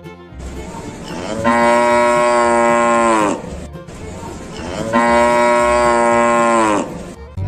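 Cow mooing twice, two long calls of about two seconds each, each dropping in pitch at the end.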